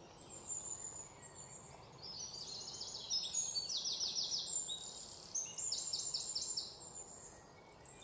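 Bird chirping in the background: several quick runs of short, high repeated notes.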